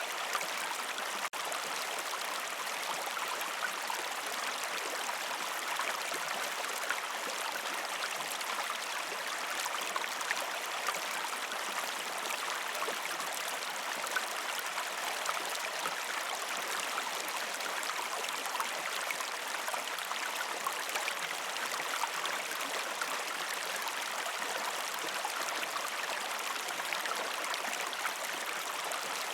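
River stream flowing over rocks: a steady rush and babble of water, with a split-second break about a second in.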